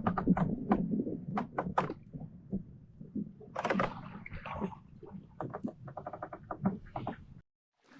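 Knocks and clicks of fish and tackle being handled on a kayak, with a quick run of about a dozen even clicks about two-thirds through; the sound then cuts off suddenly.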